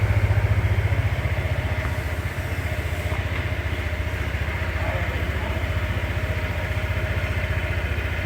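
Honda ADV 160 scooter's single-cylinder engine idling steadily with an even, rapid pulse. It is freshly started for the first time since leaving Japan.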